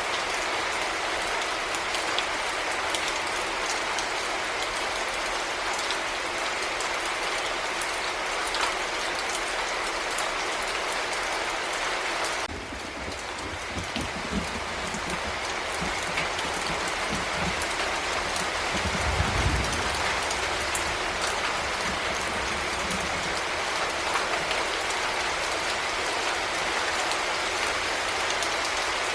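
Heavy rain falling steadily. About halfway through a low rumble comes in underneath, strongest a little past two-thirds of the way, then fading back into the rain.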